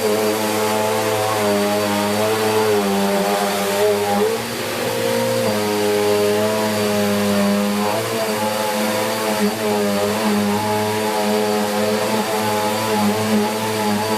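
Bissell Cleanview Plus 1900 W bagless upright vacuum cleaner running as it is pushed over carpet: a steady motor hum with a faint high whine, its pitch dipping and recovering slightly as the load on the machine changes.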